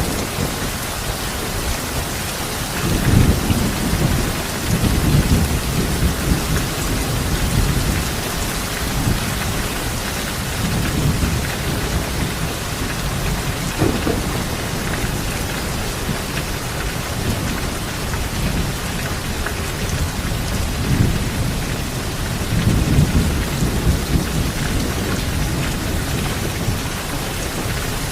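Steady heavy rain with low rolls of thunder rumbling in and out, the loudest rumbles about three to five seconds in and again near the end.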